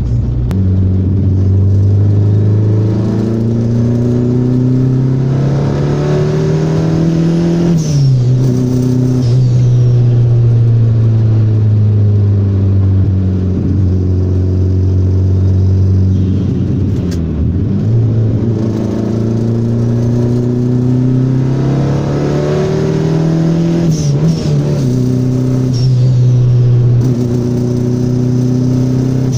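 Fuel-injected turbocharged VW Voyage engine heard from inside the cabin while accelerating through the gears. The revs climb for several seconds and drop sharply at a gear change about eight seconds in, then sag away. They climb again from about eighteen seconds to a second sharp drop near twenty-four seconds, with a brief high chirp at each shift.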